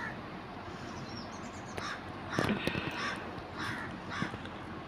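A bird cawing about five times in short harsh calls, starting about two seconds in.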